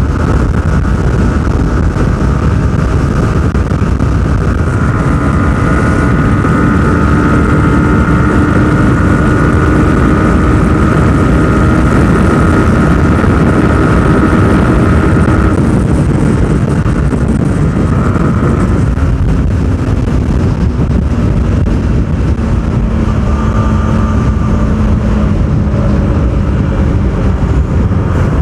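Yamaha R15 V4's single-cylinder engine running hard at speed under heavy wind rush on the microphone. Its note climbs slowly, changes about halfway through, and holds at a lower pitch near the end.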